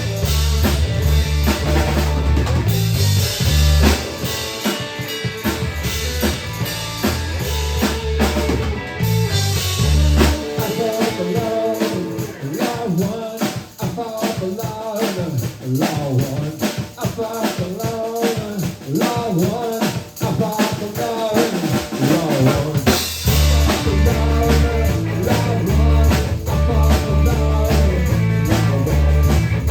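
Rock music with a full drum kit and a heavy bass line. About ten seconds in the bass drops out, leaving drums and higher instruments, and it comes back in a little past twenty seconds.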